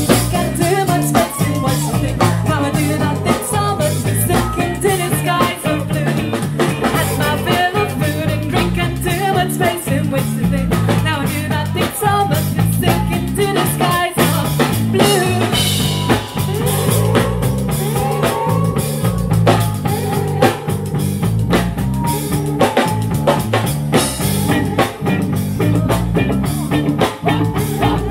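Live ska-punk band playing an instrumental stretch: drum kit, bass and guitar, with a repeating bass figure and a steady beat.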